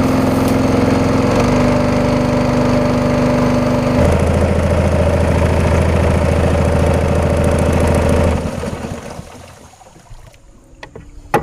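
A small engine running loudly and steadily. Its note changes about four seconds in, and it dies away about eight seconds in.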